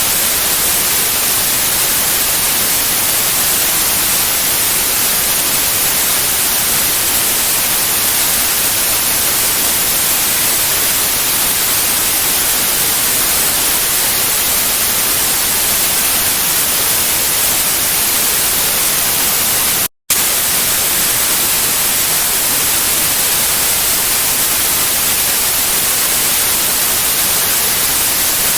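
Steady white noise: an even, loud hiss, brightest in the high end, broken once by a split-second dropout to silence about twenty seconds in.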